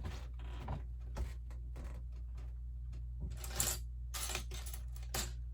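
Lego plastic bricks being handled, clicking and clattering as pieces are picked up and pressed together, with a few short rustles, over a steady low hum.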